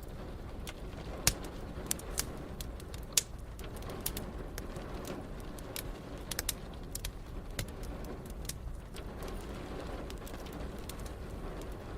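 Wood fire crackling, with irregular sharp pops and snaps, the two loudest within the first few seconds, over a steady hiss of gentle rain.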